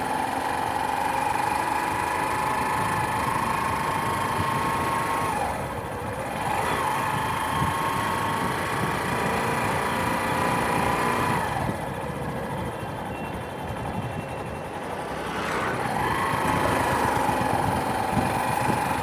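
Motorcycle engine running while riding, with a steady whine and road noise. The engine note dips briefly about five seconds in, then eases off for a few seconds past the middle as the bike slows, before picking up again near the end.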